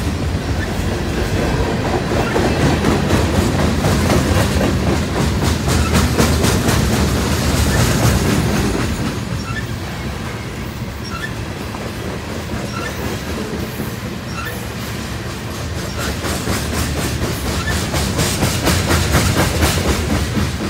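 Freight train cars rolling past close by: a steady rumble with rhythmic clicking of wheels over rail joints. It eases off in the middle and picks up again near the end.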